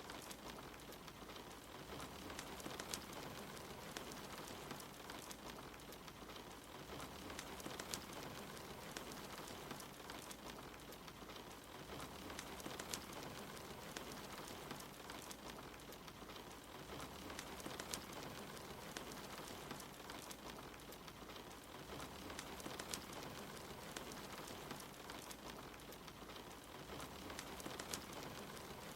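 Steady rain falling, mixed with a wood fire crackling in a fireplace, with occasional sharp pops. A faint low rumble comes and goes every few seconds.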